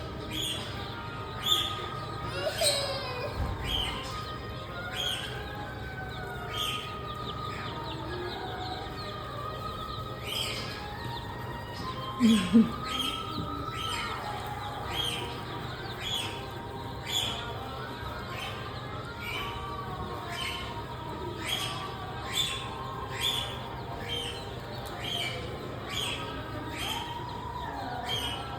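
Many birds chirping and calling together, with short sharp calls repeating about once a second over a background of softer warbling. A louder, lower call comes about twelve seconds in.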